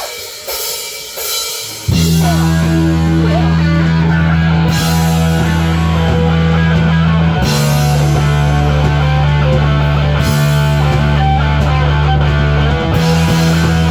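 A rock band playing live with guitar and drums. The first two seconds are sparse and quieter, then the full band comes in loud with heavy, held low bass notes.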